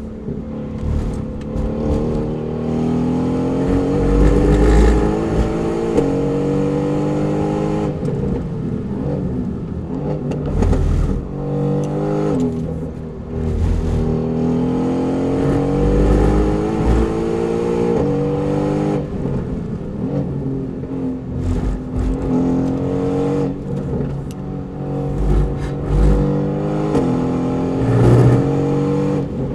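Mercedes-AMG GT R's twin-turbo V8 heard from inside the cabin, driven hard around a race track: the engine pitch climbs steadily under full throttle, drops back at each upshift and climbs again, then falls away when the throttle lifts, over and over through the lap.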